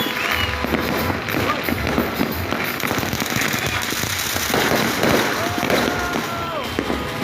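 Fireworks and firecrackers going off in a continuous barrage of overlapping cracks and pops, with no break.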